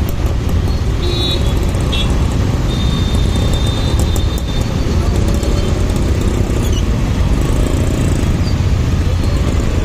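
Riding noise from a moving motorcycle: a steady, loud low rumble of engine, tyres and wind on the rider's microphone. Two short high tones sound about one and two seconds in, and a thin steady high tone runs from about three to four and a half seconds.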